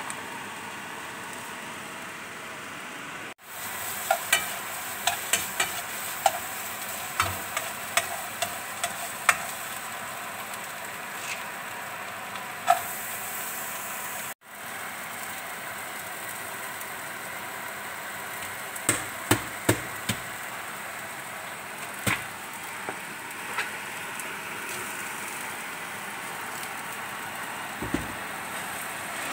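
Tempeh cubes frying in oil in a nonstick pan, a steady sizzle, with a spatula stirring and clicking against the pan now and then, most often in the first half. The sizzle cuts out briefly twice.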